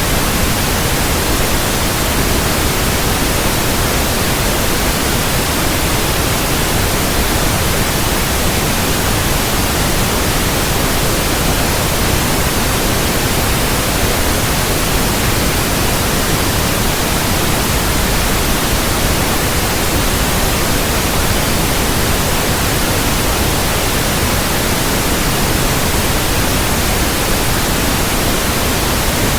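Steady, loud synthetic white noise, an even hiss across all pitches with no changes or events.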